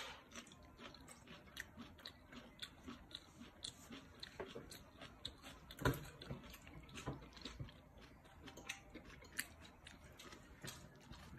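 A toddler chewing soft pieces of pan-fried fish ball: faint, irregular small clicks and mouth sounds, with one louder click about six seconds in.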